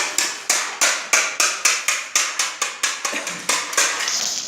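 Sandpaper rubbed back and forth by hand over a surface: rhythmic scratching strokes, about three or four a second, growing uneven and dying away near the end.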